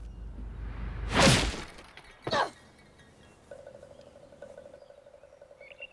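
A rushing sound swells into a loud smash with shattering, and a second, shorter crash follows about a second later. After that a faint pulsing hum runs on.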